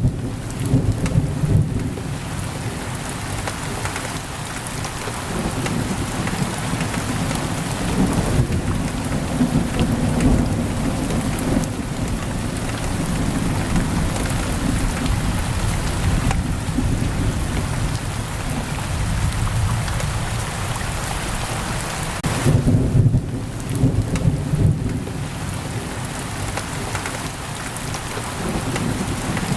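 Heavy rain pouring steadily on a window, with low rolls of thunder rumbling through it. The thunder is loudest right at the start and again about 23 seconds in.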